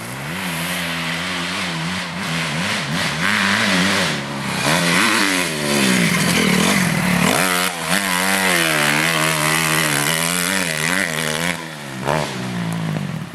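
Honda CRF250R four-stroke single-cylinder motocross bike engine revving hard, its pitch rising and falling again and again as the rider opens and closes the throttle and shifts gears.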